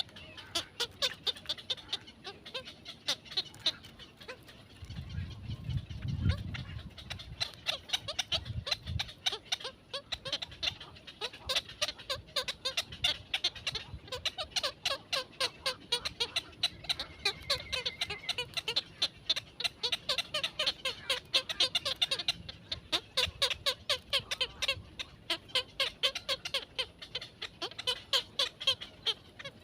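Small birds chirping in quick, short repeated calls, several a second, with a brief low rumble around six seconds in.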